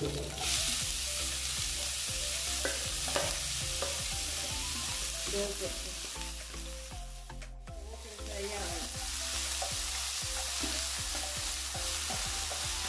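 Chopped onion and curry leaves sizzling in hot oil in a frying pan, stirred with a wooden spatula. The sizzle starts about half a second in as the onion goes in, drops out briefly about halfway, then carries on.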